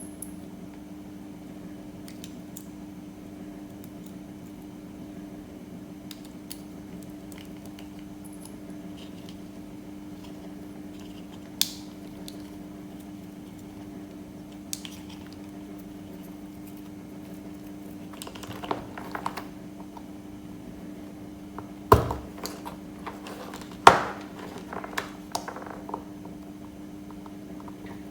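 Steady low hum with scattered clicks, then a run of louder knocks and clattering in the second half, as of small hard objects being handled and set down.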